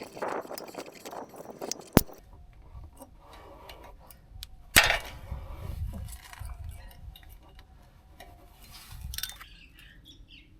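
Metal hand tools clinking and being handled, with a sharp metallic knock about two seconds in and a second knock that rings briefly a little before the middle.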